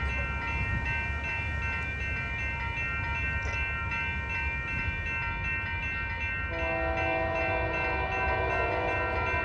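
Union Pacific 9817's diesel locomotive passing with a grain train, a steady low rumble, with a steady high ringing tone throughout. About two-thirds of the way in, the locomotive's horn starts a long held blast.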